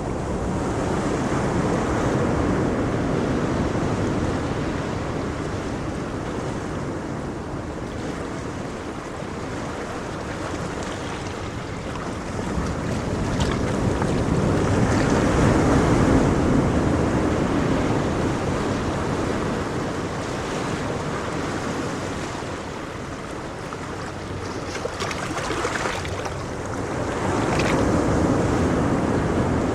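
Sea waves breaking on the shore: a rushing wash of surf that swells and ebbs, with three big surges about twelve seconds apart.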